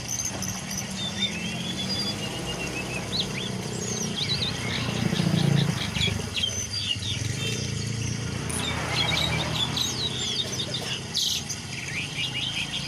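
Songbirds chirping and singing in quick, short notes that keep going throughout, over a steady low rumble.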